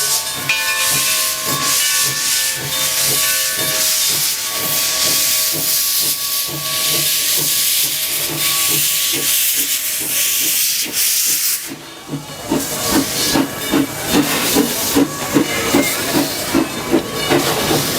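Steam locomotive 'Torch Lake', a 0-6-4T tank engine, hissing loudly with escaping steam. The hiss breaks off about twelve seconds in and gives way to a steady run of exhaust chuffs, several a second.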